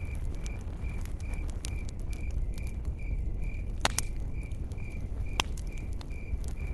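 Burning stump (Finnish candle) crackling, with sharp pops, the loudest about four and five and a half seconds in, over a low rumble. A steady high chirp repeats about three times a second behind it.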